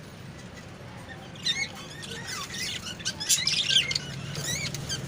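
Ringneck parrot giving a run of quick, wavering high-pitched chirps, starting about a second and a half in.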